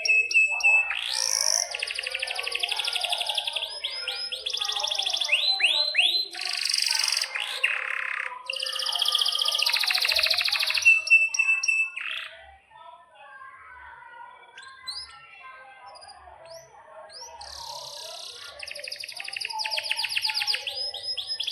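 Domestic canary singing loud rapid trills and rolls with sharp chirps. The song breaks off about twelve seconds in, leaving scattered faint notes, and starts again near the end.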